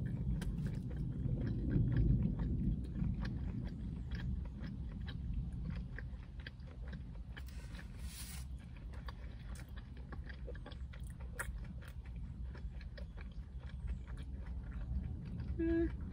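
Close-up chewing of a mouthful of crispy breaded fried chicken sandwich, with many small crunches and wet mouth clicks.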